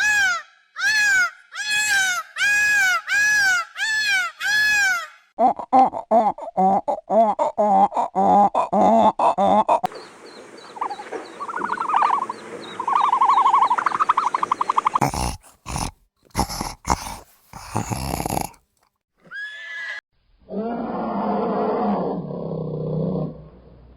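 A string of different animal calls cut one after another. It opens with about ten evenly repeated high, arching calls over the first five seconds, followed by choppier pitched calls, a few sharp clicks, and a lower call near the end.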